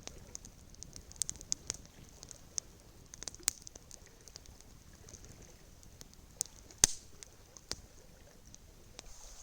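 Campfire crackling: irregular pops and snaps from burning wood, with one sharper pop about seven seconds in, over a faint hiss.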